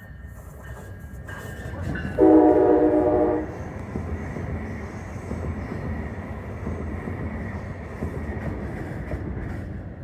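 Brightline passenger train sounding one blast of its multi-tone horn about two seconds in, the loudest sound here, for a little over a second. Around it is the steady rumble of the train passing close by on the tracks.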